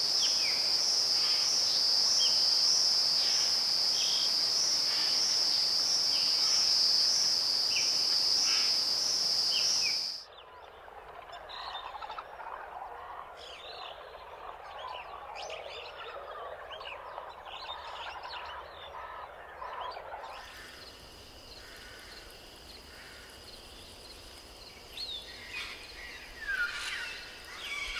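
Forest ambience in three parts: for about ten seconds a loud, steady, high-pitched pulsing insect trill with a few bird chirps over it; then it cuts off suddenly to quieter, busy chattering birdsong; about twenty seconds in a fainter trill returns under scattered bird calls.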